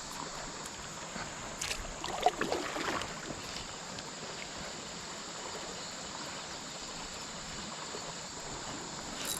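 Steady river and wind noise heard from a kayak on the water, with a brief cluster of clicks and knocks about two seconds in.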